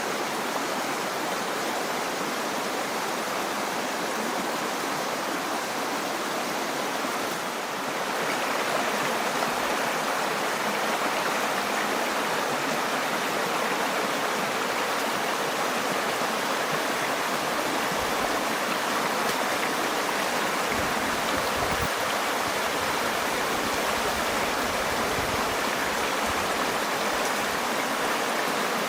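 Steady rushing water, growing a little louder and fuller about eight seconds in.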